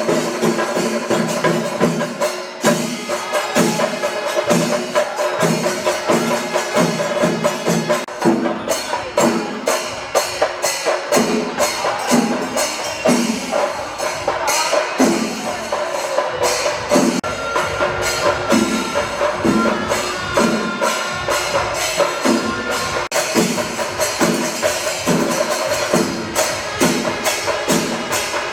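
Kerala temple festival percussion music: drums and hand cymbals striking in a fast, steady rhythm, with held pitched tones underneath.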